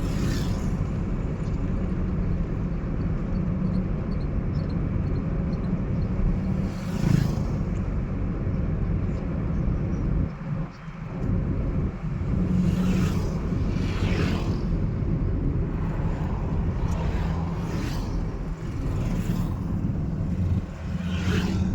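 Car on the move: a steady low engine and road rumble, with several brief whooshes, most likely passing traffic. The rumble dips for a moment about halfway through.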